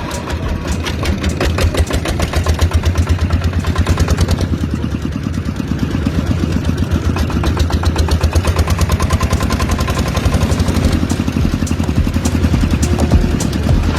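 Miniature diesel engine of a homemade water pump running steadily, with a rapid, even chugging.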